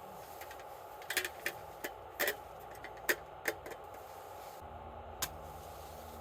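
Wood campfire crackling, with about ten irregular sharp pops over a steady background hiss.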